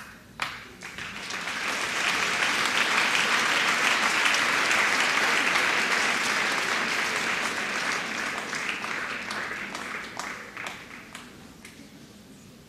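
Audience applauding: the clapping swells in the first couple of seconds, holds, then thins to a few scattered claps and dies away near the end.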